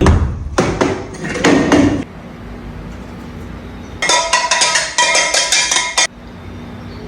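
Two bursts of rapid clattering and banging, the second ringing like struck metal: kitchenware such as pots, pans or dishes being knocked together on purpose to make a racket.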